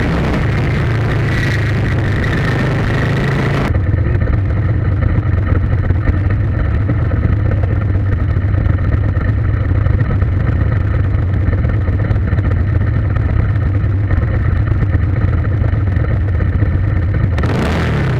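A vehicle engine running steadily with a strong low hum. Its sound turns duller and loses its treble a few seconds in, and brightens again near the end.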